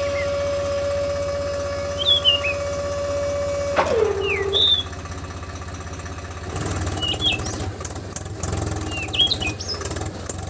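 A small motor running with a steady whine over a low throb, its pitch falling as it winds down and stops about four seconds in; a rougher, noisier running sound takes over a couple of seconds later. Birds chirp briefly every couple of seconds.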